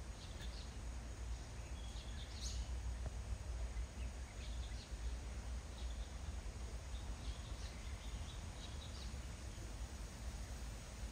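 Outdoor ambience: faint birds chirping here and there in short calls over a steady low rumble.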